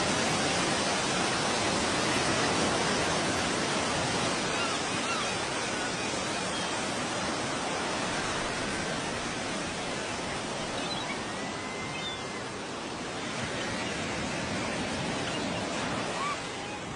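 A steady rushing roar of noise, like wind or surf, that eases slowly and drops a step just before the end.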